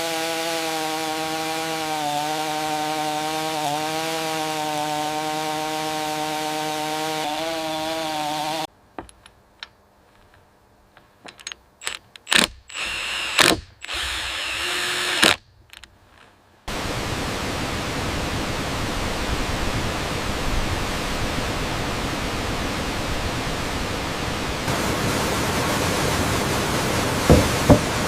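A power tool's motor runs at a steady pitch, wavering slightly, then cuts off about eight seconds in. A few sharp knocks and clicks follow over near silence, then a steady rushing noise of falling water fills the rest.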